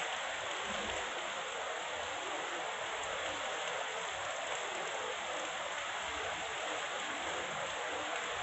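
Heavy rain falling in a steady downpour, an even hiss with no thunder clap.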